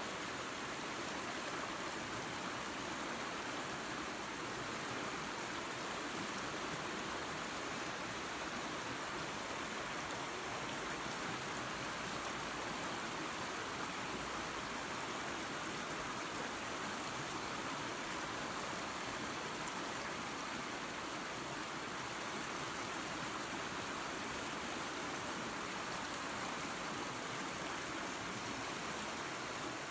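Creek water running over a small waterfall: a steady, even rush with no breaks.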